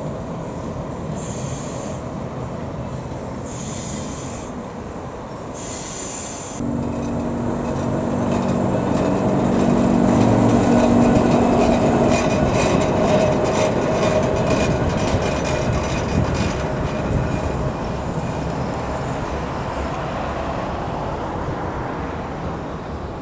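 A heritage electric tram passing on rails: wheels squealing and a run of clicks over rail joints, with a steady hum from its motors. The sound builds to its loudest about ten to thirteen seconds in, then fades away.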